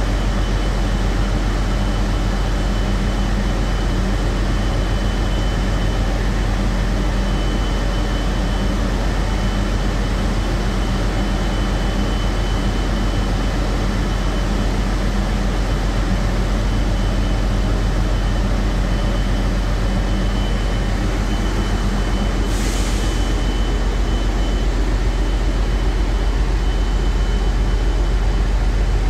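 Heavy marine diesel machinery running steadily, a loud low drone with a faint high whine over it. About three-quarters of the way through, a short hiss cuts in.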